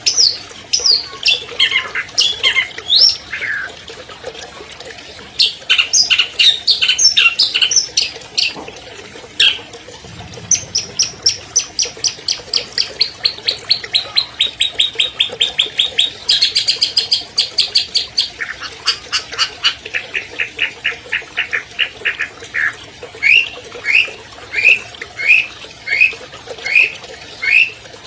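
Long-tailed shrike (cendet) singing a varied, mimicry-filled song: quick sweeping chirps, then long rapid trills that step down in pitch, and near the end a slower run of repeated notes, about one and a half a second.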